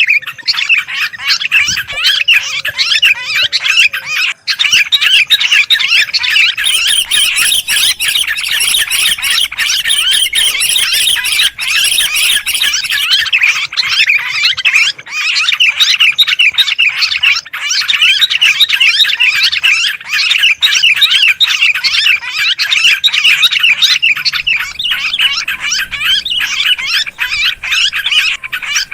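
Sooty-headed bulbuls (kutilang) and yellow-vented bulbuls (trucukan) chattering and squawking in a dense, unbroken, agitated chorus, the commotion used as a lure call to draw other birds in.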